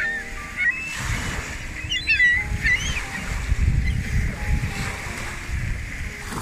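Birds calling with short, quick, high chirps, once about half a second in and a cluster about two to three seconds in, over a low rumble of wind and lake waves.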